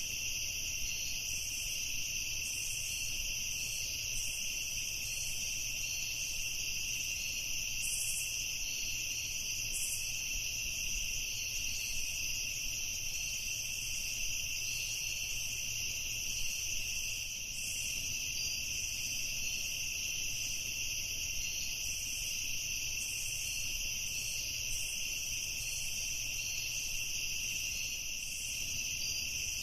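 Evening insect chorus: a steady, unbroken high-pitched trilling that holds two high pitches throughout.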